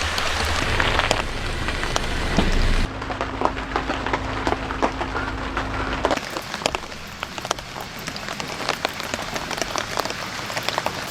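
Rain falling, with many close drops ticking. The sound changes abruptly twice, about three and six seconds in.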